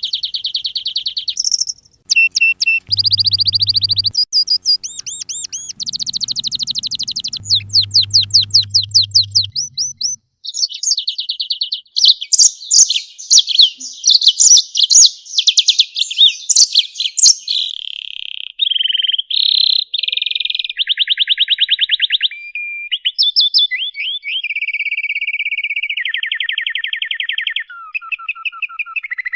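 Songbird singing a fast, varied song of rapid trills, quick strings of repeated notes, buzzy phrases and short whistles, as played on a masteran tutoring recording for caged songbirds. A faint low hum runs under the first half.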